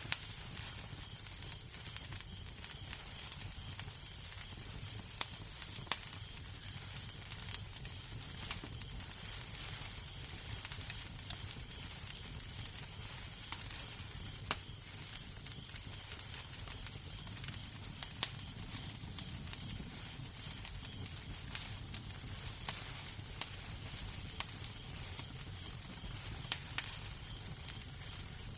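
Wood fire crackling in a fireplace: a steady hiss and low rumble, with sharp pops at irregular intervals.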